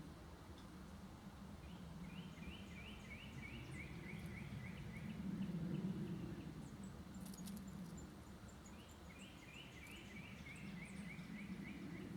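A songbird singing twice, each song a quick series of about ten short, slurred whistled notes stepping down in pitch, over a low outdoor rumble.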